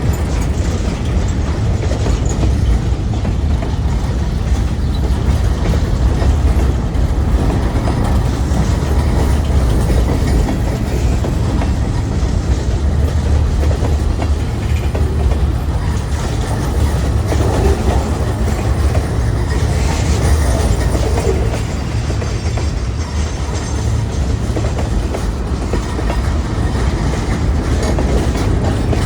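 CSX freight train's cars rolling past on the track: a steady, loud rumble.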